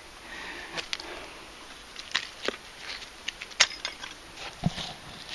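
Scattered light clicks and scrapes of hand digging through dirt and broken glass in a bottle dump.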